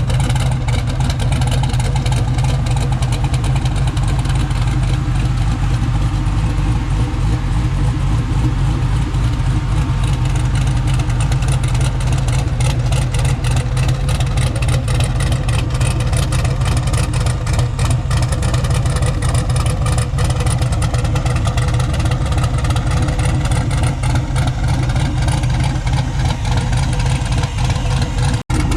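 Cammed LS V8 in a twin-turbo Ford dentside pickup idling on a chop tune: a steady, loud, choppy exhaust note through dual side exits. The sound drops out for a moment near the end.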